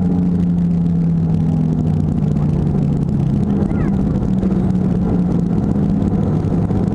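Airliner cabin noise just after landing: the jet engines and airflow make a loud, steady hum, with one low tone sinking slightly during the first few seconds as the engines wind down.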